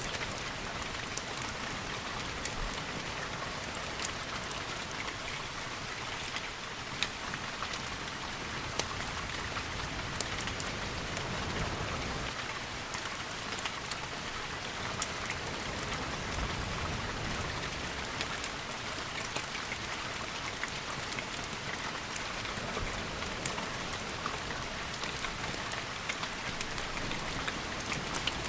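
Steady rain falling, a continuous hiss dotted with many small sharp drop ticks, with a faint low rumble swelling and fading around the middle.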